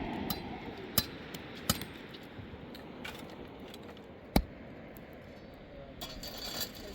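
A few separate sharp clicks or clinks, the loudest about four seconds in, over faint steady background noise.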